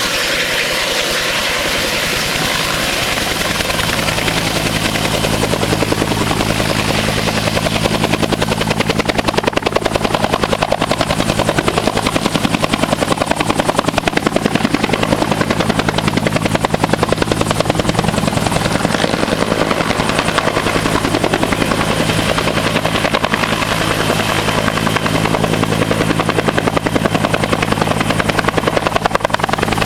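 Helicopter running close by: a fast, even beat of the rotor blades with a steady hum of several tones that sets in a few seconds in.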